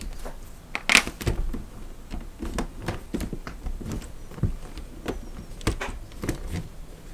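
Irregular clicks and knocks, with a sharp one about a second in and no steady rhythm.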